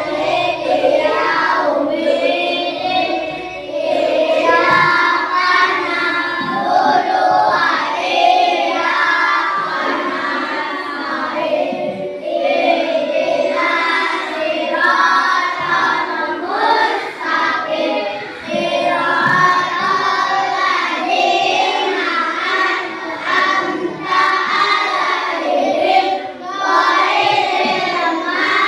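A class of young schoolchildren chanting a prayer together in unison, in a sing-song recitation with short breaks between phrases.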